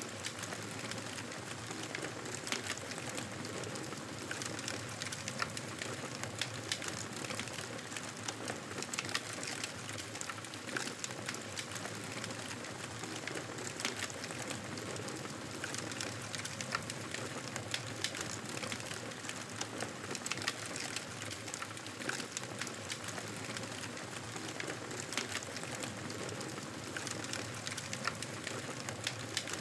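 Campfire burning: a steady hiss with frequent sharp crackles and pops throughout.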